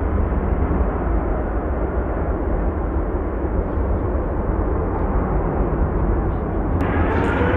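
Airliner jet engines: a loud, steady rush with a deep rumble, joined near the end by a sudden rising whine.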